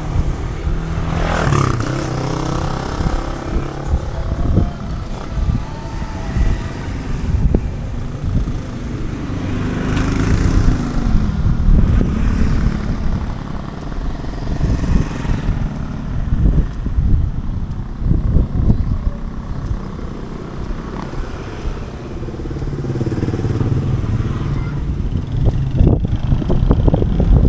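Street traffic with small motorcycle engines passing by several times, their pitch rising and falling as they go, over a steady traffic rumble.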